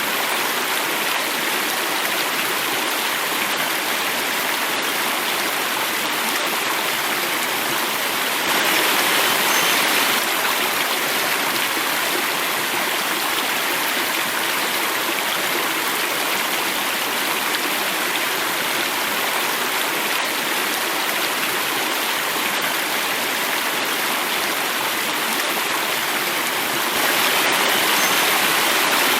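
Water flowing and falling in a cascade, a steady even rush that grows slightly louder twice, about nine seconds in and near the end.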